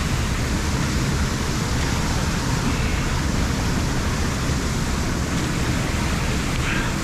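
Lake water rushing steadily into a large drain pipe.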